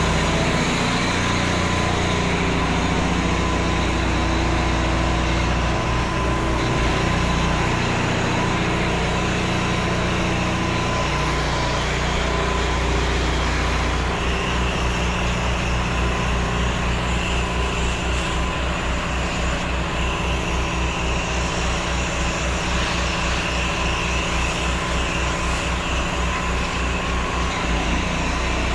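Pressure-washing rig's engine and pump running steadily, with a rapid low pulsing of about three beats a second setting in about halfway through.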